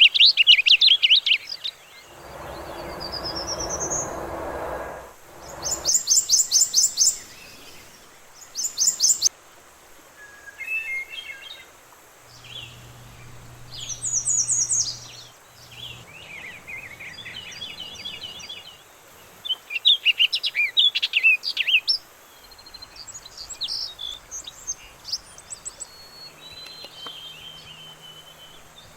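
Several wild songbirds singing and calling in turn: fast trills, chirp series and one rising whistle. A rush of wind-like noise runs for a few seconds near the start, and a faint low hum is heard about halfway through.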